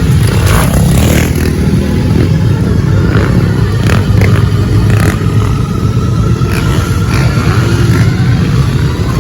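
Motocross bikes racing, their engines running loud and steady with revving.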